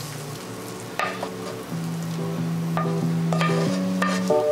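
Tomatoes and eggs frying in a pan with a steady sizzle, while plucked guitar music comes in and grows louder.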